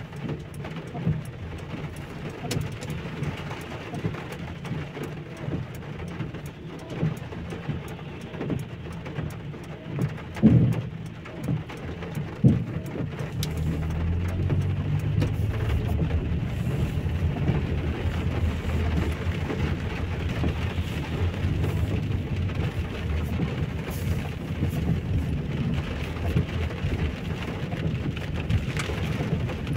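Heavy rain falling, with many sharp drop taps over a steady hiss. About halfway through, a low rumble comes in and stays, louder.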